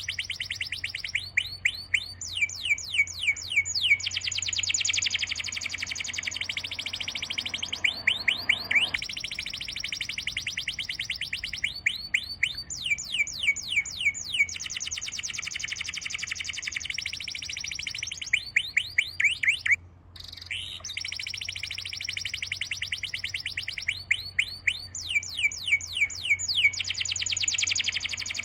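Songbird singing: bursts of quick, falling whistled notes, each burst lasting a second or three, alternating with a fast, even trill. The pattern repeats about every six seconds, with a brief break about twenty seconds in.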